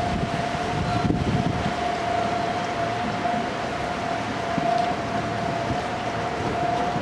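A steady, unwavering whine held throughout, over gusty wind rumbling on the microphone, strongest in the first two seconds.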